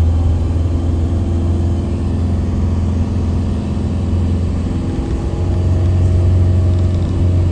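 Steady low engine and road drone heard inside a moving tour van.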